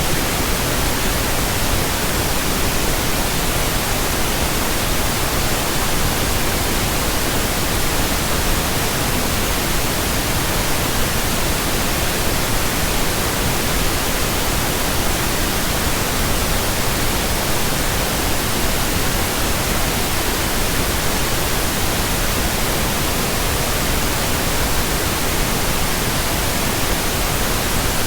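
Steady pink noise: an even, unbroken hiss with no change in level.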